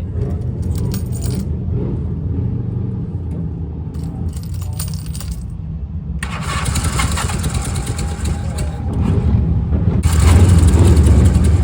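1938 BMW R71's air-cooled side-valve flat-twin engine running steadily, freshly started on choke. A hiss joins about six seconds in, and the engine grows louder near the end.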